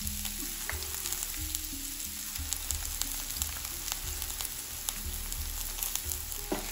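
Chopped onion and garlic sizzling in hot olive oil, a steady hiss with scattered small crackles and pops.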